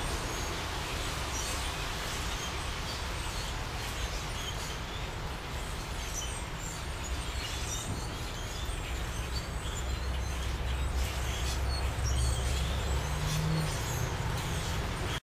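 A large flock of black birds calling, many short overlapping chirps, over a steady low rumble. The sound cuts off suddenly near the end.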